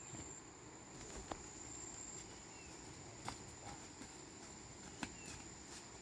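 Insects trilling: one steady high-pitched tone that holds throughout, with a few sharp clicks or snaps, about three in all.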